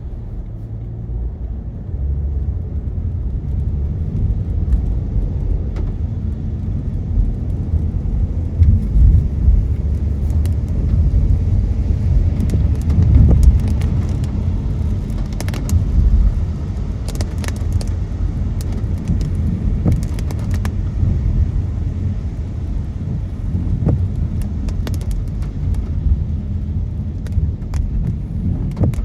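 Car driving on a wet road, heard from inside the cabin: a steady low rumble of tyres and engine, with scattered light ticks of raindrops striking the windows.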